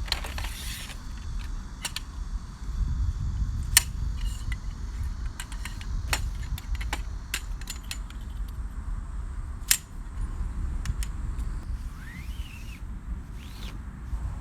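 Scattered sharp clicks and clinks of small hard objects being handled, over a steady low rumble.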